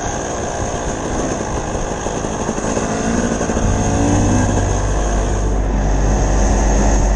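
Dirt bike engine running on the move, its note rising and falling with the throttle.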